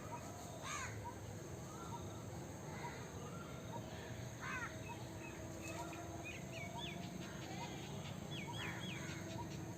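Mixed wild birdsong: three harsh calls spaced about four seconds apart. Between them come thin, rising whistled notes, most of them in the second half, and many short chirps.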